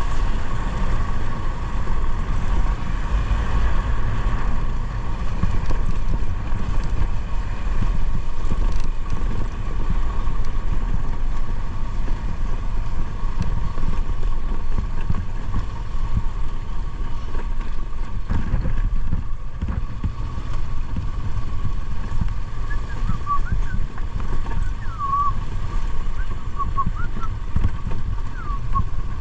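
Motorcycle engine running steadily while riding, with wind buffeting the microphone. A few short high chirps sound over it in the last few seconds.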